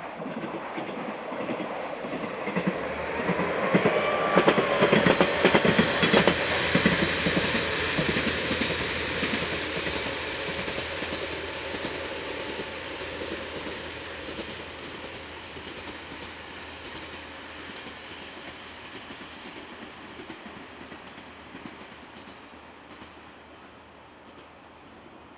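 Diesel railcar passing by: its wheels clack over the rail joints, loudest about five seconds in, with a short whine that rises and falls as it comes close. The sound then fades slowly as the train draws away.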